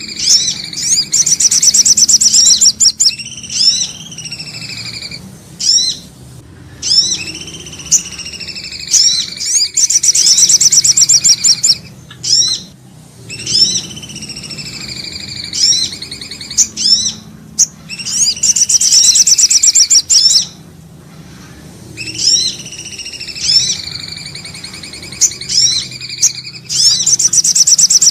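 Bird-lure recording of common iora (cipoh) and sogok ontong calls. Each phrase is a whistle, then a run of sharp falling chirps and a fast high trill, and the same phrase repeats about every eight or nine seconds, like a loop.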